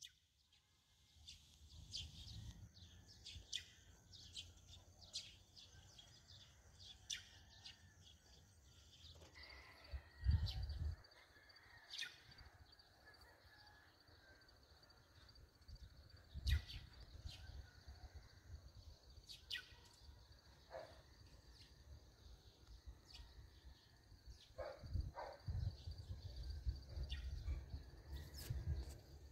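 Faint outdoor ambience: scattered short bird chirps over a low rumble that comes and goes, loudest about ten seconds in and again near the end.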